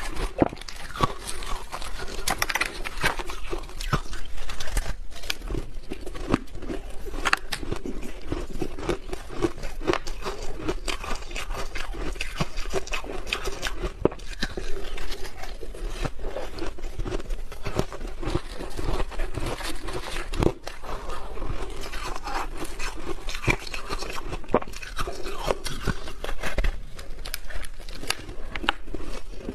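Close-up chewing of crunchy ice dusted with matcha powder: a dense, continuous run of crunching and cracking bites.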